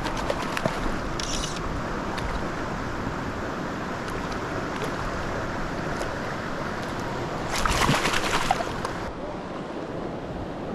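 Steady rush of a mountain trout stream's flowing water, with a louder, crackling burst lasting about a second and a half near the end.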